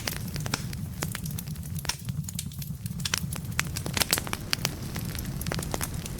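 Wood fire burning in a fireplace: a steady low rumble of flame under many sharp, irregular crackles and pops from the burning logs, which thin out for a moment about two seconds in.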